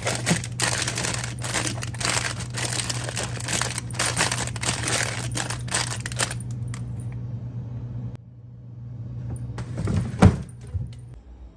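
Rapid clatter of small hard items being poured or handled for about six seconds, over a steady low hum. Then a quieter stretch, with one thump near the end.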